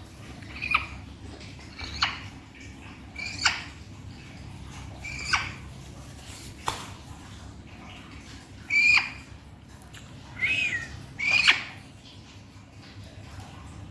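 A pet parrot giving short, sharp squawks, about eight of them, spaced a second or two apart, the loudest near the end.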